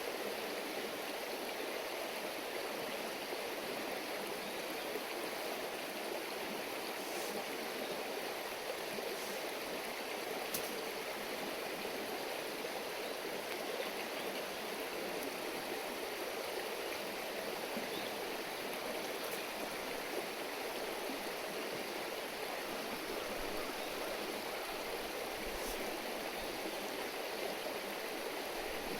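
Steady babbling of a river stream running over rocks, with a few faint clicks.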